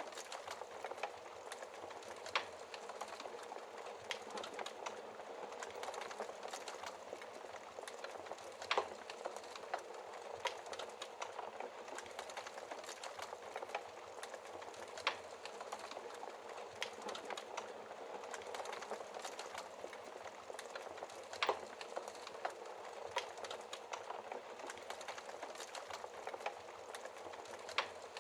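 Wood fire crackling in a fireplace: a steady hiss dense with small snaps, and about five louder pops spaced roughly six seconds apart.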